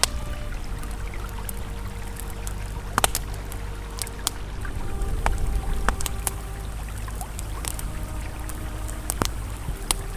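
Campfire crackling, with irregular sharp pops and snaps, over the steady rush of a flowing river.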